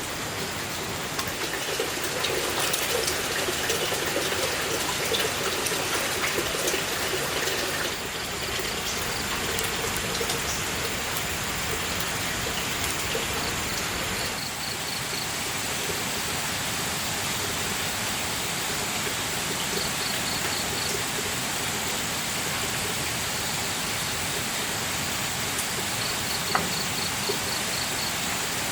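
Steady rushing water. A short run of high, rapid chirps repeats about every six seconds.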